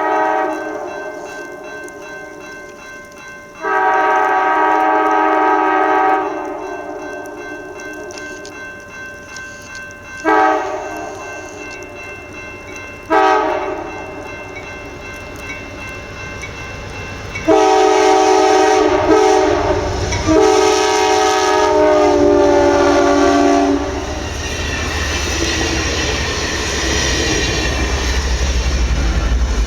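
Amtrak passenger train sounding its multi-note horn in a series of blasts: a long one, two short ones, then long blasts held for about six seconds. After that the train passes with a low rumble and wheel clatter.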